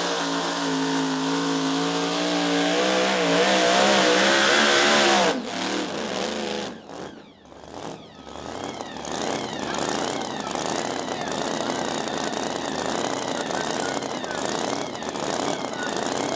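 Supercharged engine of a super modified two-wheel-drive pulling truck running hard under load, its pitch wavering and getting louder, then cutting off suddenly about five seconds in. A quieter, even noise follows.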